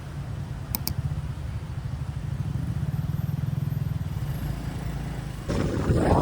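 A motor vehicle's engine running with a low, fast-pulsing rumble. Two short clicks come about a second in, and a louder rushing noise joins near the end.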